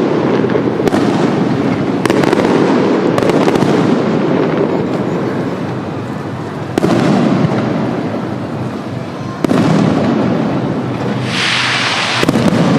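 Aerial fireworks shells bursting in a loud series, each bang trailing into a long rolling rumble. Near the end, a crackling, sizzling shell sounds just before another bang.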